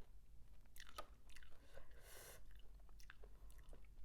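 A person chewing a mouthful of crunchy spicy squid salad close to the microphone, with scattered crisp crunches and a short breathy hiss about two seconds in.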